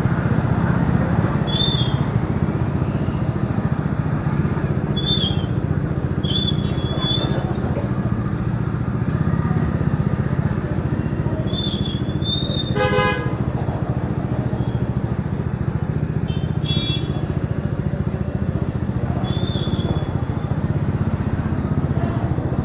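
Bajaj Dominar 400's single-cylinder engine running steadily on the move in city traffic. A vehicle horn honks once about halfway through, and several short high chirps sound on and off throughout.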